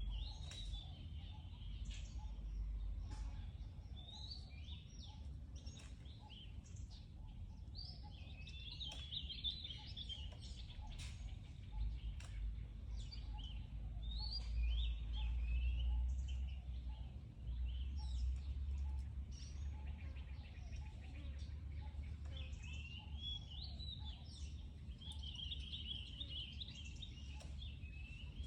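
Birds chirping in repeated bursts of twittering song over a steady low outdoor rumble that swells for several seconds in the middle.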